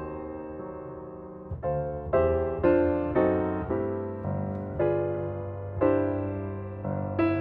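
Gentle background piano music: single chords and notes struck about once a second, each left to fade.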